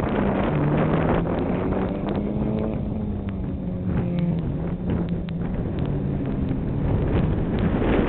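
Mitsubishi Galant VR-4 rally car's engine heard across a dirt circuit, its pitch rising and falling as the car works through the course. It grows louder near the end as the car comes closer, with wind on the microphone throughout.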